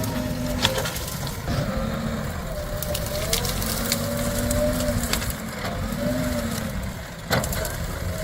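JCB 3DX Plus backhoe loader's diesel engine running under working load, its pitch dipping and rising again several times as the hydraulics take up load. Sharp knocks come three times: just under a second in, at about three seconds, and near the end.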